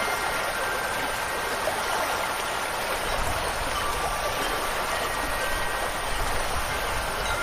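Steady rush of running water and rain, with a few faint, thin ringing tones of wind chimes over it. A low rumble comes in about three seconds in.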